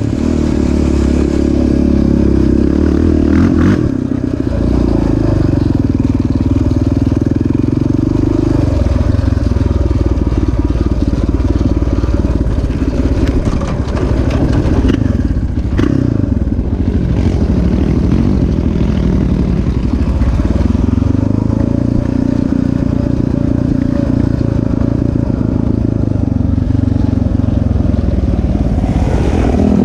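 Single-cylinder off-road engine running under load on a dirt track, its pitch rising and falling as the throttle is opened and closed, with a few brief drops in level.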